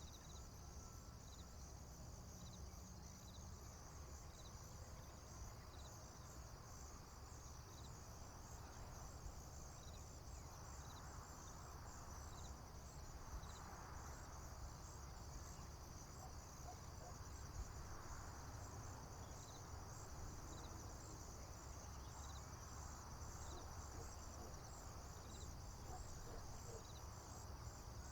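Faint, steady chorus of crickets and other insects trilling. A separate chirp repeats roughly every second and a half through the first half, over a low steady rumble.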